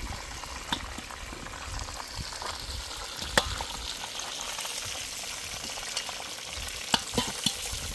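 Meat sizzling as it fries in a pot over a fast wood fire, being stirred, with a few sharp clacks of the utensil against the pot.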